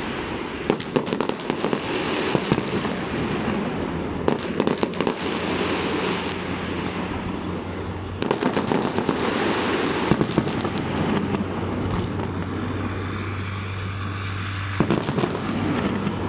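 Fireworks display: volleys of bangs and crackling come in clusters over a continuous din, with a steady low hum underneath.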